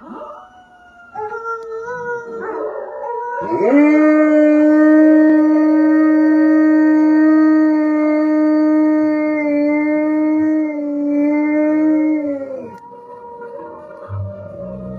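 Dogs howling. A higher, wavering howl starts about a second in; then a long, steady, deeper howl begins about three and a half seconds in and holds one pitch for roughly nine seconds before dropping away, with a fainter higher howl carrying on after it.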